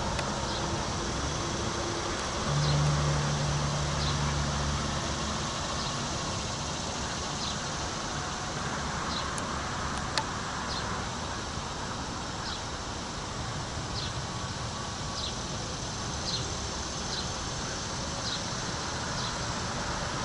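Trackside background noise: a steady hiss with short high chirps repeating roughly once a second. About two and a half seconds in, a low hum sounds for a couple of seconds.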